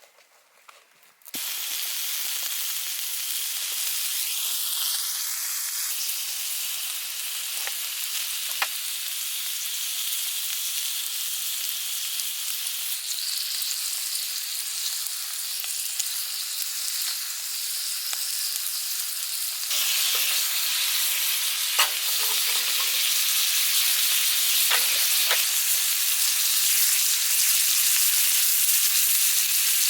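Food sizzling in a hot iron frying pan. The sizzle starts suddenly about a second in, as the food goes into the pan, and turns louder about two-thirds of the way through, with a few light clicks.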